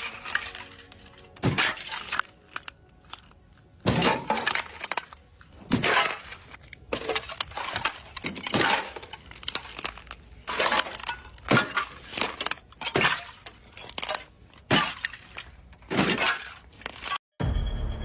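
A series of sharp cracking, breaking impacts, about one every second to second and a half, each ringing out briefly before the next.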